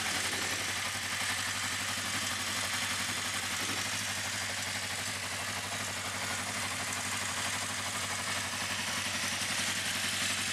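1981 Honda CB650 Custom's four-cylinder engine, with four carburetors and four exhaust pipes, idling steadily with a rumble.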